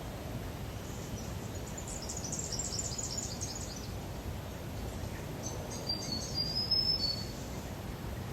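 Small birds calling high over steady low outdoor background noise: a burst of rapid, high chirps about two seconds in, then a few short, clear whistled notes about six seconds in.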